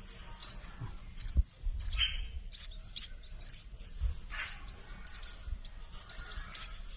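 Nestling munias giving many short, high begging chirps, each sliding down in pitch, while being hand-fed. A single low knock sounds about a second and a half in.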